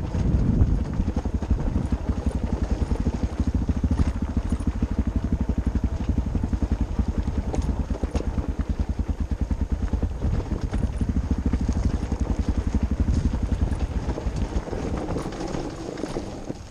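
Motorcycle engine running at low revs while the bike rides down a rocky gravel track, with a fast, even pulsing beat. It quietens over the last couple of seconds.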